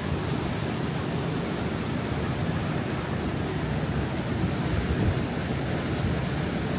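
Wind rumbling on the microphone over a steady rush of water, with no clear beat or pitch.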